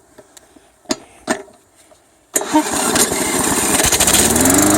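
A push lawn mower's small petrol engine being started: a few light clicks and knocks, then about two seconds in the engine catches suddenly and runs, its speed rising for about a second before settling into a steady run.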